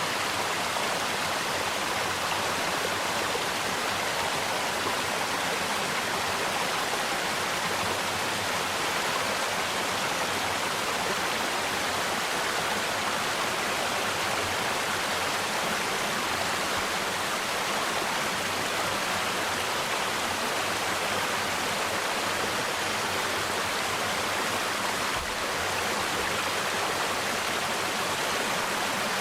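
Mountain stream water rushing steadily over rocks, a continuous even wash of sound.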